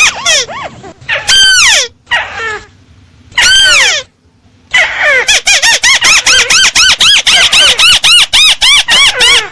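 Crake call played as a bird-catching lure: a rapid series of clear, arched piping notes, about five a second, broken by two longer falling notes and a short pause about four seconds in, after which the fast series resumes.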